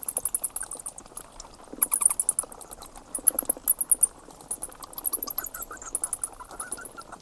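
Bat squeaking: rapid runs of high-pitched chirps and clicks, repeating throughout.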